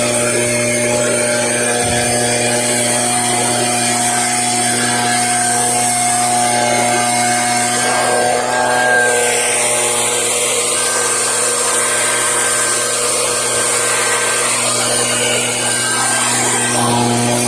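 Leaf blower running steadily at high speed, blowing packed debris out of a roof gutter.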